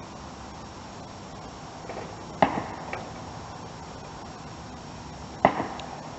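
Two sharp knocks about three seconds apart, each with a brief ring after it, plus a fainter tap just after the first, over a steady background hiss.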